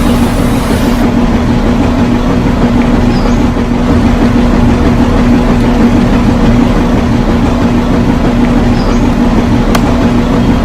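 Small motor running steadily with a constant hum and a rough, even whirr.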